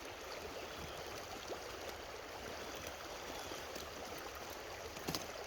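Creek water running steadily over its bed, a continuous rushing murmur, with a brief sharp click about five seconds in.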